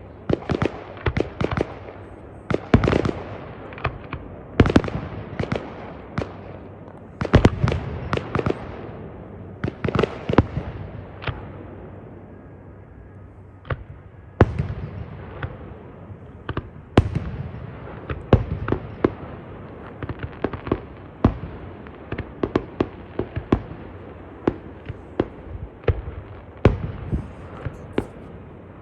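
Fireworks display: a rapid, irregular string of bangs and crackling pops, easing off briefly about twelve seconds in, then building again.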